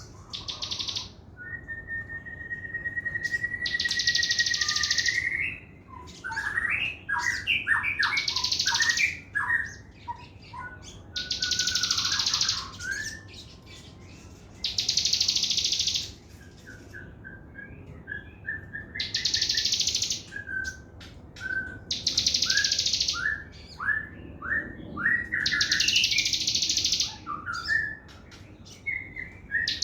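A sogon songbird singing its fast 'trotol' song: high, rapid rattling trills about a second long, repeated every few seconds, between runs of short sharp chirps and, near the start, one long whistled note that rises slightly at its end.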